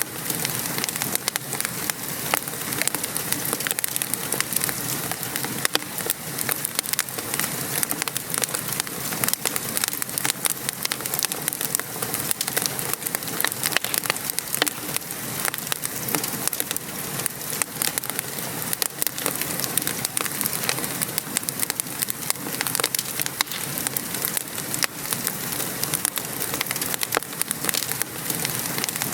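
Wood fire crackling with frequent small pops and snaps, over the steady hiss of rain falling.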